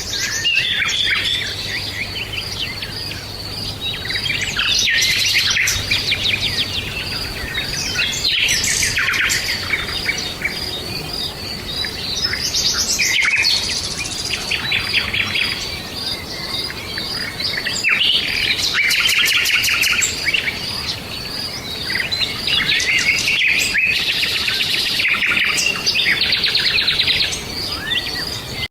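Forest ambience: several songbirds chirping and singing rapid trills one after another, over a steady, evenly pulsing high buzz like an insect.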